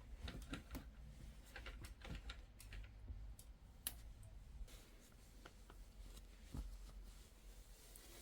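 Faint, irregular light clicks and taps of objects being handled, with one sharper click about four seconds in.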